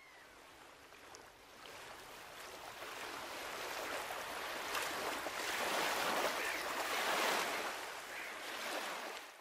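Ocean surf washing onto a beach, building gradually to its loudest about seven seconds in, then easing off.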